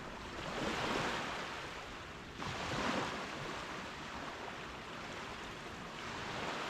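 Gentle ocean waves washing onto a beach: a steady surf hiss with a surge about a second in and a sharper one starting about two and a half seconds in.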